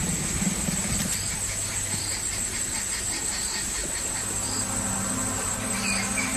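Insect chorus in the bush: a steady high cricket trill with a short chirp repeating about once a second, over a steady low hum. Faint low tones come in over the last two seconds.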